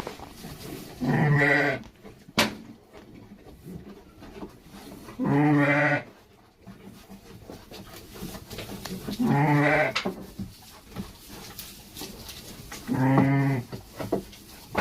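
A goat bleating four times, each a wavering, quavering call about a second long, roughly every four seconds.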